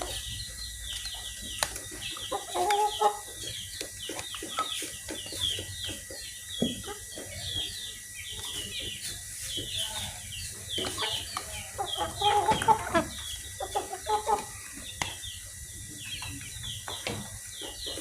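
Chickens clucking while being fed, over a constant run of short, high, falling chirps, with scattered short clicks.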